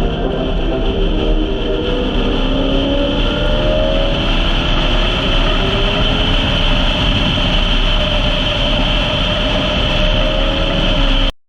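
Car driving at speed, with a steady rumble of engine and road noise and an engine note rising slowly over several seconds. It cuts off abruptly near the end.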